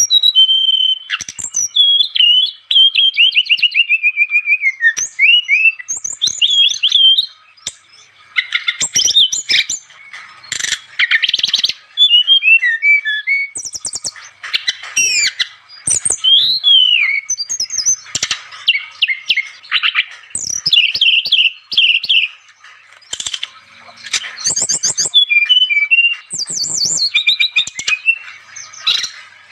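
Brown-chested jungle flycatcher (SRDC) singing vigorously: a continuous run of varied whistled phrases, fast trills and rapid chattering notes. The song breaks off briefly a couple of times.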